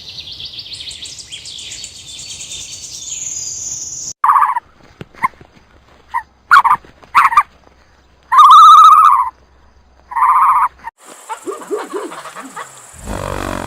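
A string of animal-sound clips: high-pitched bird chirping for about four seconds, then a dog barking in a series of loud separate barks, some drawn out. Near the end a horse begins to whinny.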